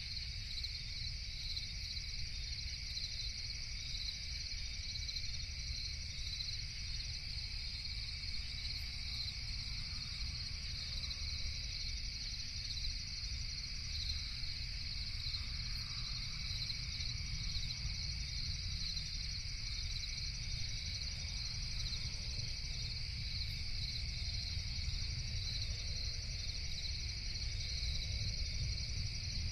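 Continuous night chorus of crickets, a steady high-pitched chirping that never lets up, over a low steady rumble.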